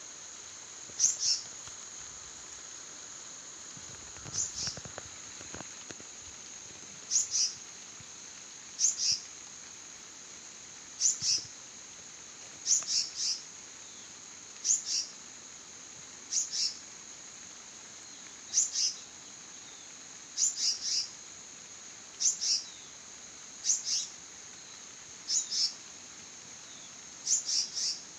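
A bird calling a short burst of two or three high chirps about every two seconds, over a steady high-pitched drone.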